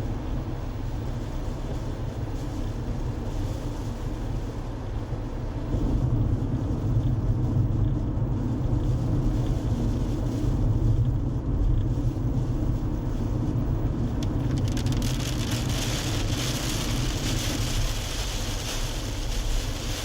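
Road noise of a moving car: a steady low rumble of engine and tyres, with a hiss joining in about three-quarters of the way through.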